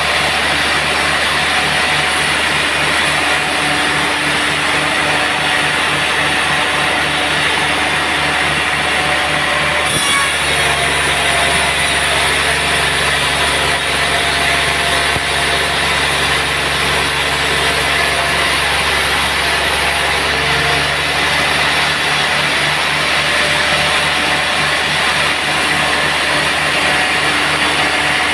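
Sawmill machinery running steadily while sawing teak logs, a constant engine-like hum with a pulsing low note. About ten seconds in the tone shifts to steadier pitched notes for about ten seconds, then returns.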